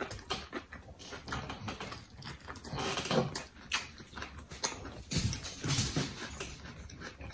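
Close-miked chewing and mouth noises from people eating submarine sandwiches, with scattered short clicks and louder rustles about three seconds in and again around five to six seconds as the sandwich and its paper wrapper are handled.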